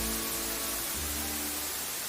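Steady white-noise hiss under slow, soft music of long held notes, with the notes changing about a second in.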